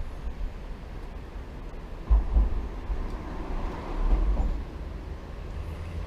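Wind buffeting the microphone: a steady low rumble with two heavier gusts, about two seconds in and again near four seconds.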